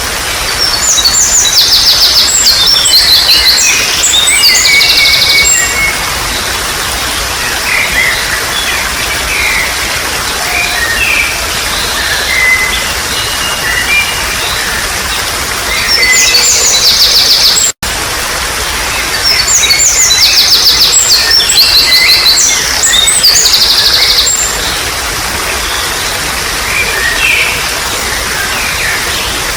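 A songbird singing loud bursts of rapid, high trilled notes over the steady rush of babbling water. A momentary gap a little past halfway, after which the same song passage comes again.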